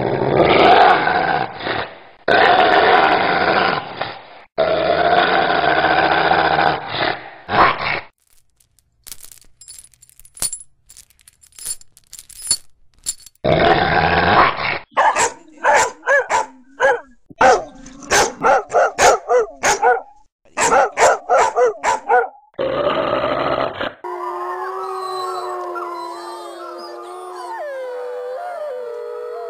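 A run of dog sounds. Long stretches of deep growling come first, then separate sharp barks, a fast series of short yapping barks, another growl, and near the end whining that rises and falls in pitch.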